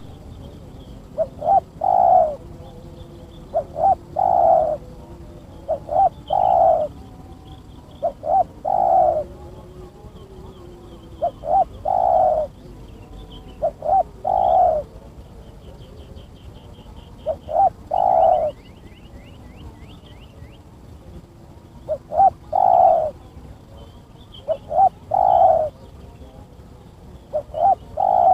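Spotted dove cooing repeatedly, a phrase about every two and a half seconds: two short notes, then a longer coo.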